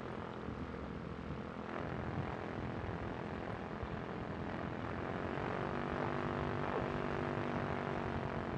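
Quicksilver ultralight's two-stroke engine and propeller running steadily at low power on the ground. The engine note comes through a little stronger and clearer about five seconds in.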